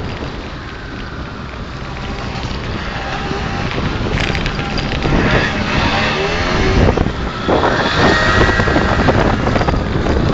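Motorcycle engines running and revving, their pitch rising and falling, getting louder through the second half.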